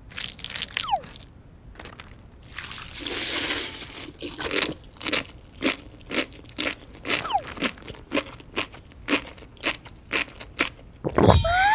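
Sea grapes being chewed close up, with crisp popping crunches at about two a second. Near the end a short tone rises and then falls.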